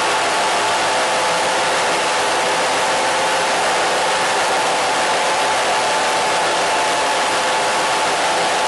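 Steady, loud static hiss, unchanging throughout, with a few faint steady tones running through it.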